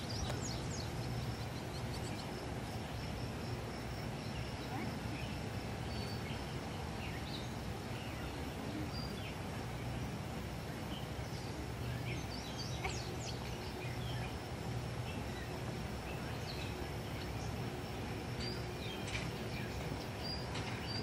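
Outdoor ambience: small birds chirping and calling in short, scattered notes over a steady low background noise.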